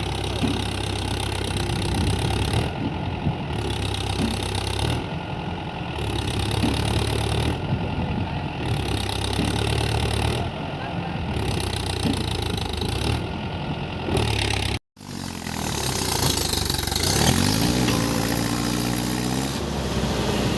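Diesel tractor engine running steadily. After a sudden cut in the sound about two-thirds of the way in, an engine revs up, its pitch rising and then holding for about two seconds.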